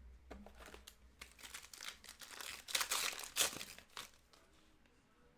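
A trading-card pack's foil wrapper crinkling as it is torn open and crumpled: a dense crackle lasting about four seconds, loudest about three seconds in.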